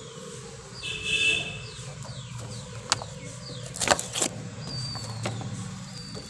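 Birds calling with short, repeated downward whistles over a steady low hum. Around the middle come a few sharp clicks and crackles of a thin clear plastic container being handled.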